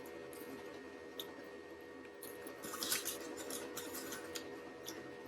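Faint clicks and rustling from handling food and its packaging while eating, a little louder about three seconds in, over a steady electrical hum.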